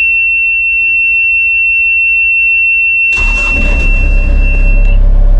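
Komatsu mini excavator's warning buzzer sounding one steady high tone, then the diesel engine cranks and starts about three seconds in and runs on at idle; the buzzer cuts off shortly after the engine catches. Heard from inside the closed cab.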